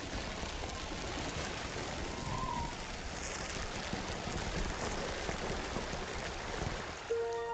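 Steady rushing of water, an even hiss without rhythm; soft music comes in near the end.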